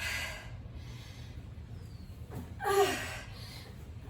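A woman breathing hard under exertion between exercise reps: a sharp breath at the start, then about two and a half seconds in a voiced, strained exhale that falls in pitch.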